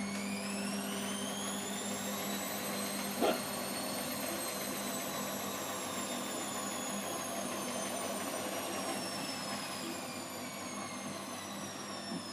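Washing machine motor whining as the drum speeds up, the pitch rising until about four seconds in and then slowly falling away, over a steady low hum. A single sharp knock sounds just after three seconds in.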